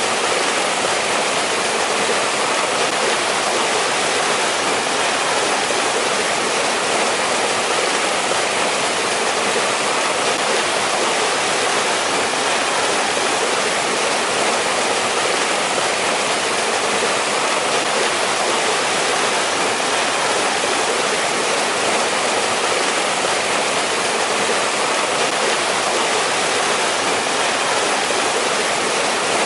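Mountain stream water rushing and splashing over rocks, a steady, unbroken sound.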